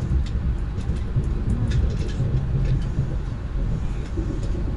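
Lastochka electric train running along the track, heard from inside the carriage: a steady low rolling rumble with faint scattered clicks from the wheels and rails.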